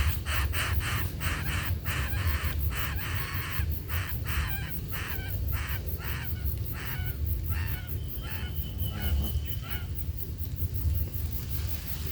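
A bird giving a quick series of short, harsh calls, about two or three a second, which thin out and stop about ten seconds in, over a steady low rumble.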